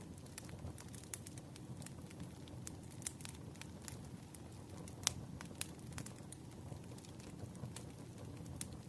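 Wood fire crackling, with irregular sharp pops and snaps over a steady low rumble of burning logs; the loudest pop comes about five seconds in.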